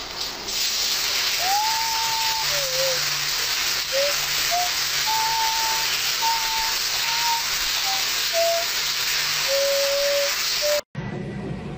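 Shower spray hissing steadily as the water pours onto a cat and the tile floor, with a string of short, thin whistle-like tones over it, some gliding in pitch. The spray cuts off suddenly near the end, giving way to a low hum.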